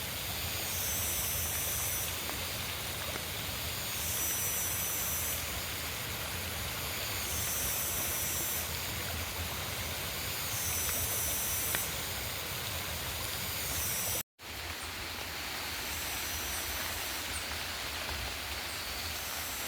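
Steady rush of river water, with a high buzz that switches on and off every second or two. The sound cuts out for a moment about fourteen seconds in.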